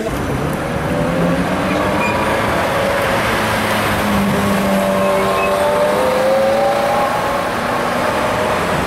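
Supercar engine running hard as the car accelerates along a street, its note rising gradually in pitch over road and tyre noise.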